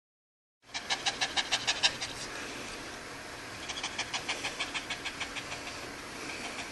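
A sheepdog panting fast and rhythmically, about seven breaths a second, a chuffing that sounds like a train. The panting starts under a second in, pauses for about a second and a half midway, then picks up again.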